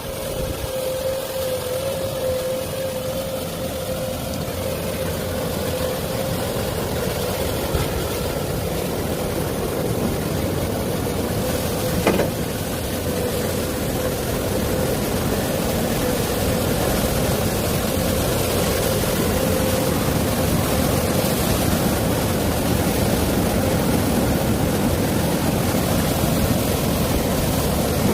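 A steady running engine or motor: a constant hum with a noisy wash over it, growing a little louder. There is a single sharp click about twelve seconds in, and the sound cuts off abruptly at the end.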